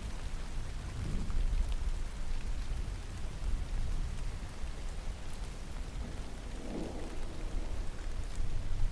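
Steady rain falling, with a low rumble of distant thunder underneath and a few sharper drops ticking.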